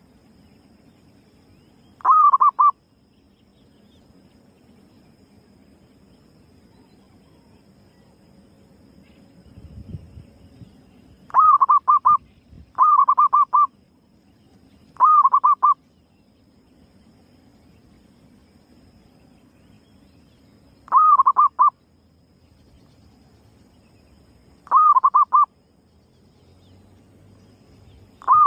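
Female zebra dove (perkutut) cooing: about seven short calls, each a quick run of three or four notes, a few seconds apart. It is a lure call, used to draw other zebra doves in.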